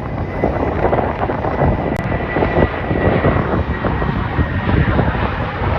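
Jet airliner's engines running at takeoff power: a loud, rough rumble with a steady high whine on top that drifts slightly lower near the end.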